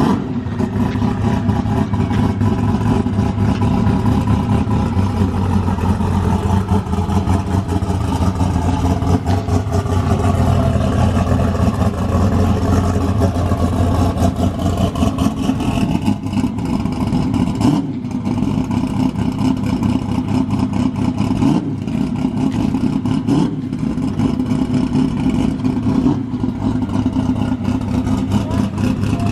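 Twin-turbo Corvette drag car's engine running steadily at a low, even speed, with a few brief dips in the sound toward the end.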